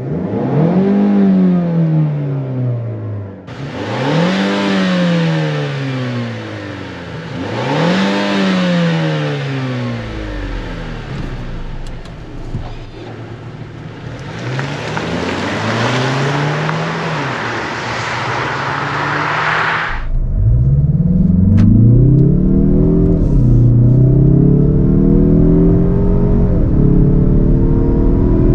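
2024 Mazda3 Turbo's 2.5-litre turbocharged four-cylinder revved four times, the pitch climbing and falling back each time. Then the car accelerates hard, the engine pitch rising steadily with two drops at upshifts of the six-speed automatic, over a low road rumble.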